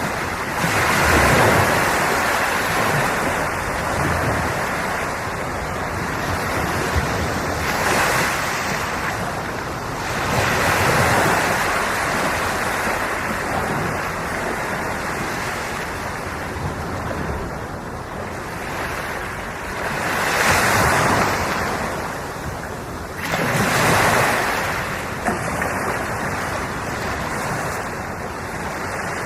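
Sea waves washing ashore and breaking in a continuous wash, swelling louder with each bigger wave several times at uneven intervals.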